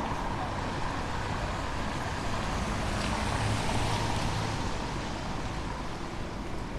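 City street traffic: vehicles passing as a steady noise with a low hum, swelling slightly midway.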